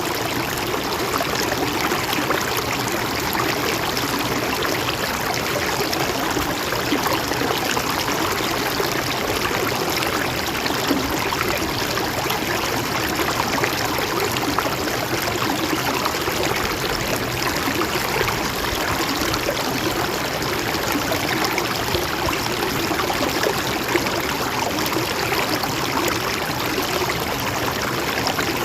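Mountain stream flowing and trickling steadily over rocks, an even rushing with no change.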